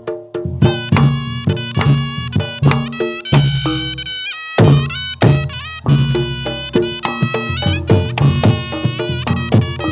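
Traditional Javanese jathilan dance music: drums and gong-chime percussion keep a steady beat under a shrill reed-pipe melody. The texture thins briefly about four seconds in, then comes back with a strong hit.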